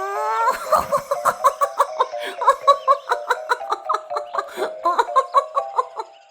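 A cartoon character giggling: a held voiced note that rises, then a long run of quick high-pitched laughing pulses, about four or five a second.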